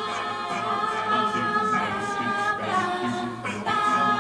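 A group of voices singing together in harmony, holding notes that shift every half second or so.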